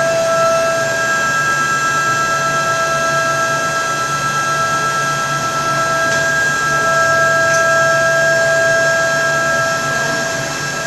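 High-speed CNC spindle running with a steady high-pitched whine of several held tones over a hiss.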